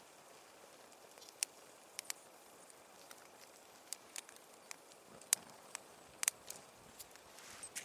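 Wood fire crackling: sparse, irregular sharp pops over a faint hiss.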